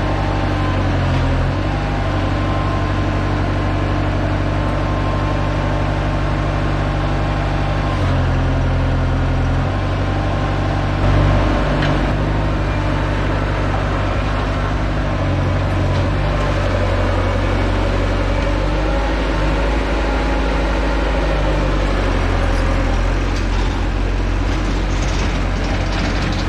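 Bobcat T200 compact track loader's engine running at a steady level, its low note shifting several times.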